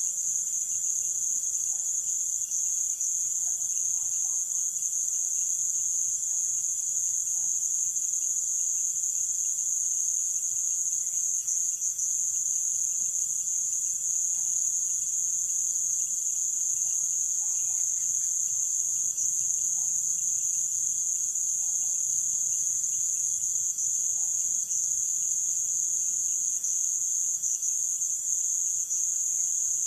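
Night chorus of Amazon rainforest insects, a continuous, steady, high-pitched shrill of cricket-like trilling. A second, fainter steady tone sits below it.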